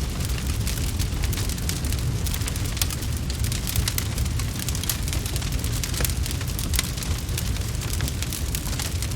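Wood fire crackling, with many quick sharp pops and snaps scattered over a steady low rumble.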